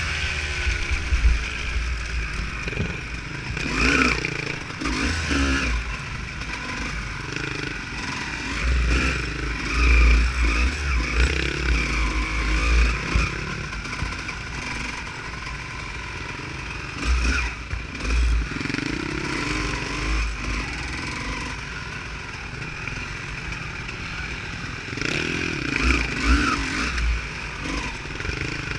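Honda CR250 two-stroke motocross bike engine running off-road, its revs rising and falling, with wind buffeting the microphone in gusts.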